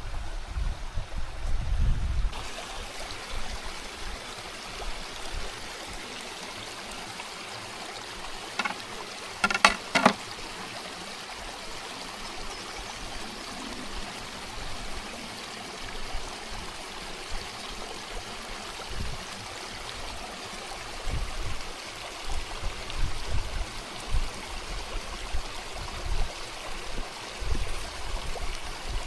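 Steady rush of flowing stream water, with a quick cluster of sharp clicks or knocks about nine to ten seconds in. Irregular low rumbling bumps come at the start and again through the last third.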